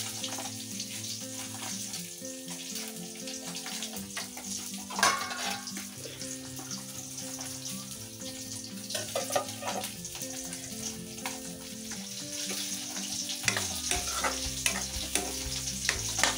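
Tomato and spice masala sizzling in a metal kadai, with a steel spoon scraping and clinking against the pan as it is stirred.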